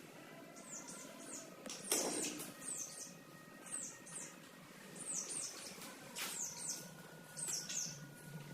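Small bird chirping: short, high-pitched falling notes in twos and threes, about once a second, with a couple of brief knocks.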